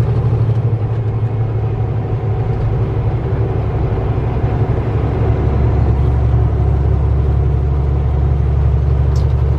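Kenworth T660 semi truck's diesel engine running steadily while driving, a low drone heard from inside the cab; about halfway through the drone shifts lower in pitch.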